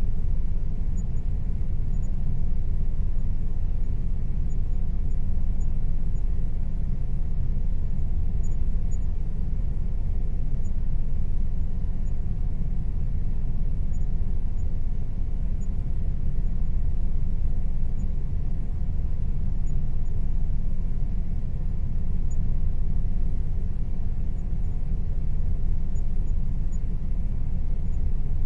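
Air conditioner running steadily: an even low rumble with a faint hum above it.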